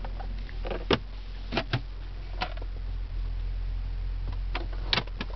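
2011 Cadillac CTS-V's supercharged V8 idling with a steady low hum, warmed up, heard from inside the cabin. Several sharp clicks and knocks of handling in the cabin sound over it, the loudest about a second in and near the end.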